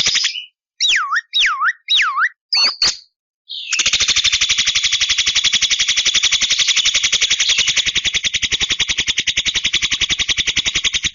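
Javan myna singing: a few swooping whistles that dip down and climb back up, then a long, rapid, harsh rattle that stops abruptly near the end.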